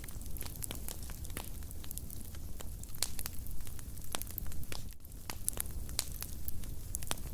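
Wood fire burning in a fireplace, crackling with irregular sharp pops and snaps over a low steady rumble of flame.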